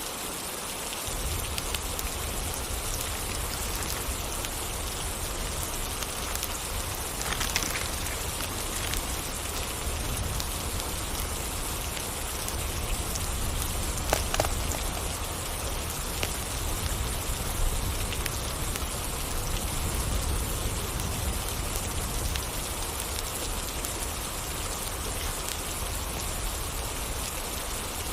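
Steady rain falling, with a low rumble underneath that comes in about a second in and a couple of sharp cracks along the way.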